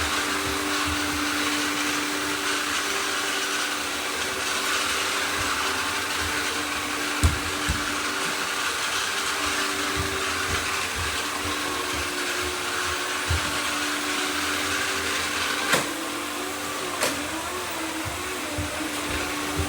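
Several robot vacuums running at once: a steady whir of motors and brushes with a steady hum under it. A few sharp knocks break in, the clearest about seven seconds in and again near sixteen seconds.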